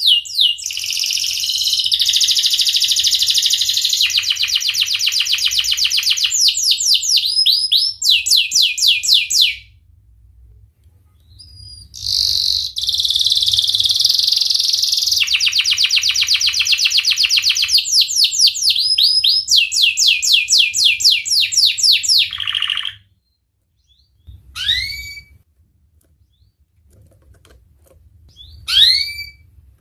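Domestic canary singing: two long bouts of very rapid rolling trills with a pause of about three seconds between them, then a few short, separate rising chirps near the end.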